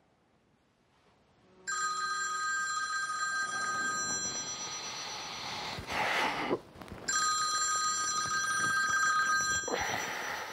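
Mobile phone ringing on a bedside table at night: a ringtone of steady high tones in two long stretches, broken by a rustle of someone moving in bed, with another rustle near the end.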